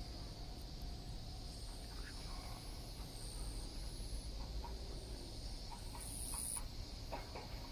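Insects chirping in high trills that come and go every half second or so, over a steady low rumble.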